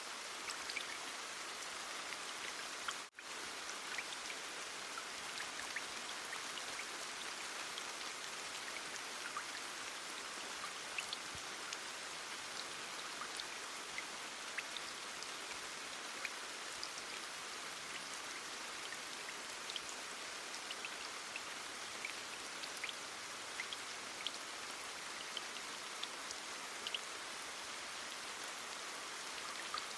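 Heavy rain falling steadily: an even hiss with scattered sharp drop ticks. It cuts out for an instant about three seconds in.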